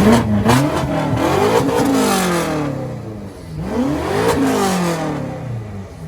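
A performance car's engine revving twice, its note climbing and then falling each time, with a few sharp cracks at the start.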